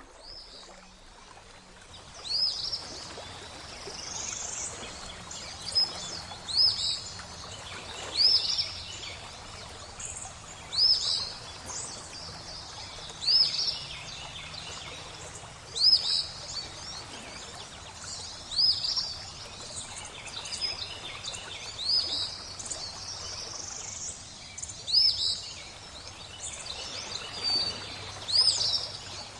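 Birdsong over flowing water: a bird repeats a short, high call about every two and a half seconds, with other chirps in between, over a steady soft wash of running water.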